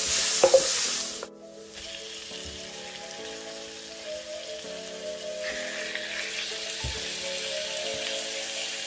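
Onion rings and minced garlic sizzling in oil in a skillet, stirred with a wooden spatula, cutting off suddenly about a second in. Then soft background music of held chords changing about once a second, with faint sizzling beneath.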